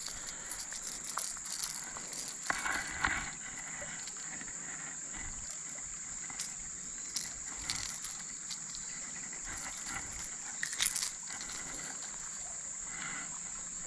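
Steady high-pitched drone of insects calling, with scattered small clicks and rustles of handling.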